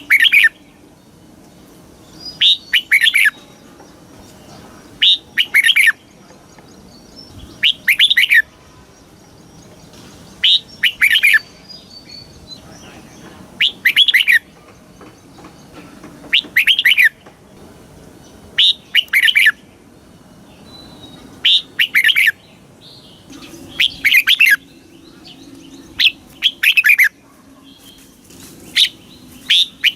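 Red-whiskered bulbul singing: a short, loud warbled phrase repeated regularly, about every two and a half to three seconds.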